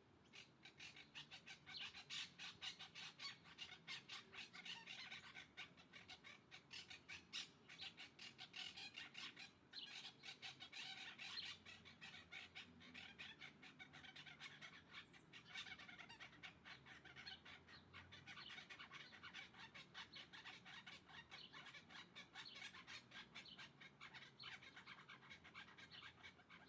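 Birds chattering faintly: a continuous run of short, quick calls, several a second.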